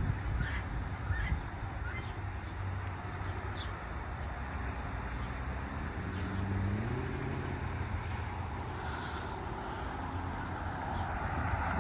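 Outdoor background with a steady low rumble of distant road traffic, and a low tone that rises about six seconds in.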